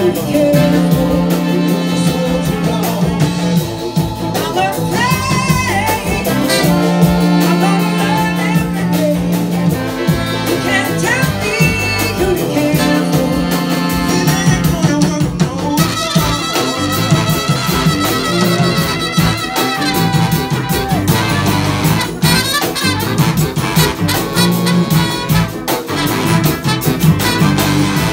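A large live rock-soul band playing, with a horn section and gliding lead lines over a steady low groove.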